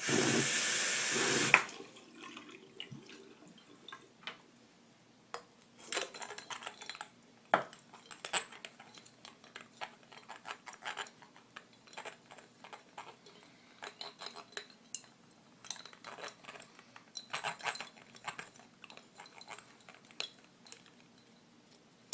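Water pouring into a small animal's water bottle for about a second and a half, then a toothbrush scrubbing inside the half-filled bottle: faint, irregular scratching and knocking strokes.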